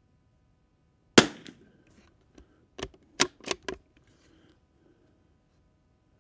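A single .22 LR rimfire rifle shot about a second in, from a Tikka T1X firing Lapua Biathlon Extreme. It is followed a moment later by four quick sharp clicks of the bolt being cycled.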